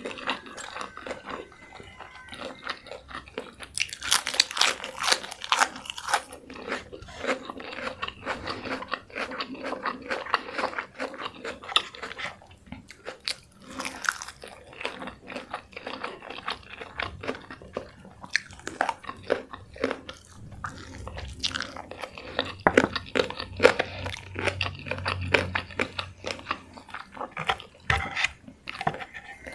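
Close-miked biting, crunching and chewing of crispy fried chicken, a dense crackle of mouth sounds throughout, with the loudest bursts of crunching about four to six seconds in and again past the twenty-second mark.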